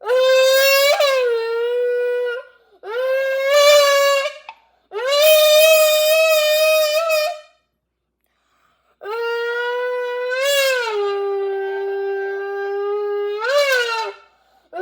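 Lips buzzing against the drinking opening of a squeezed drink can, blown like a brass mouthpiece to make race-car noises: four long, horn-like blasts, each swooping up in pitch at the start and then holding. The last blast is the longest and lowest, with two quick upward swoops in it.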